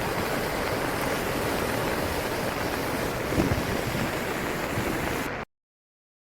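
Swollen river in flood rushing steadily, with wind buffeting the microphone; the sound cuts off abruptly about five seconds in.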